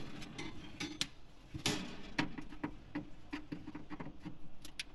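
Screwdriver working a rusted screw out of the oven's sheet-metal cavity: irregular small metal clicks and scrapes, with a louder scrape about one and a half seconds in.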